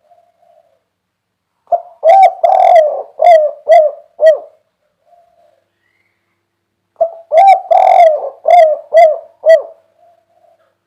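Spotted dove (derkuku) cooing, the 'kuk 3' song type: two phrases a few seconds apart. Each phrase is a short lead note, a long rolling coo, then three short clipped coos.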